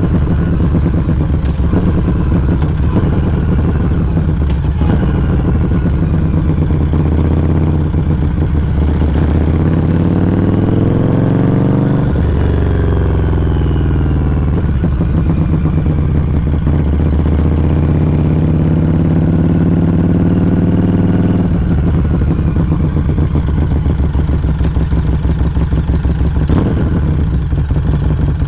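A Harley-Davidson Street XG500's V-twin exhaust, heard close up at a Firebrand Loose Cannon slip-on muffler while riding. The engine pulls up in pitch from about eight seconds in, breaks at a gear change around twelve seconds, climbs slowly again, and eases off about twenty-one seconds in.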